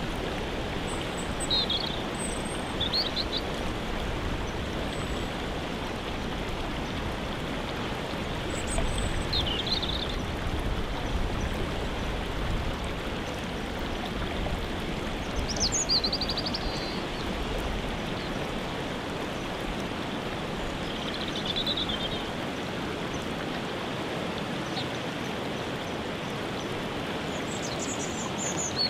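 Steady rushing of a waterfall, with short bird calls sounding over it every few seconds.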